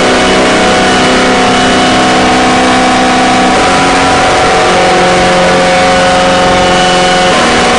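Harsh-noise drone music: a dense wall of distorted noise over sustained droning tones, which step to new pitches twice.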